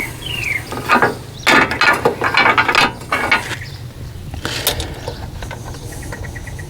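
Hand ratchet wrench clicking in bursts as bolts are run down during engine reassembly, with a bird chirp at the very start.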